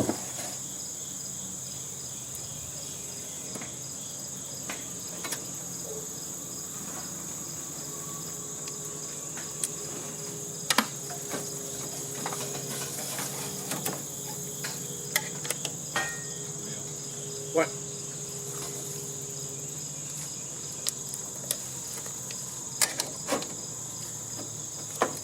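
Steady, high chirring of crickets, with a pulsing layer under it. Scattered sharp clicks and knocks break in now and then, the loudest about eleven seconds in and again a few seconds before the end.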